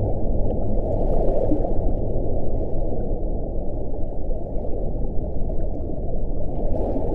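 Wind blowing in a steady low rush, swelling in gusts about a second in and again near the end, with a faint low howling tone that fades out early on.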